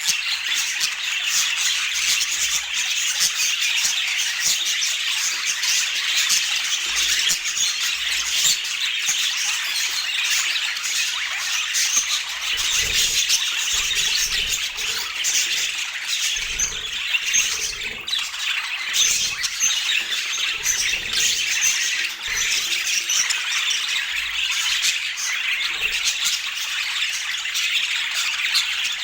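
A flock of budgerigars chattering and squawking nonstop, many short high calls overlapping into one dense, steady stream.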